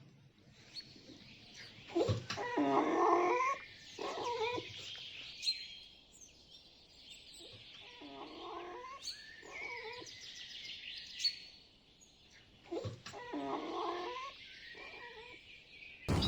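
A cat meowing: three drawn-out calls a few seconds apart, each followed by a shorter one, over a steady high hiss.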